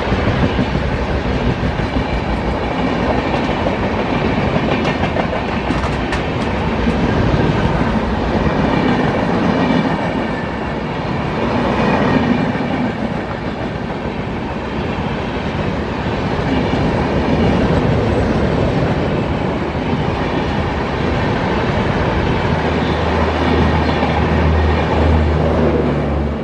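A train running past at speed, its wheels clattering on the rails with a continuous rushing noise. A steady low hum comes in a few seconds before the end.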